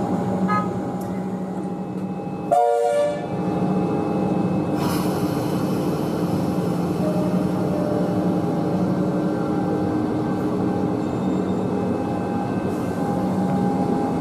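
Comeng electric suburban train departing: one short horn toot about two and a half seconds in, over the train's steady electrical hum and running noise as it pulls out.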